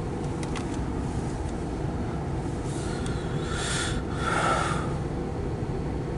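Loaded autorack freight train rolling past: a steady low rumble of wheels on rail, with a brief hiss about three to five seconds in.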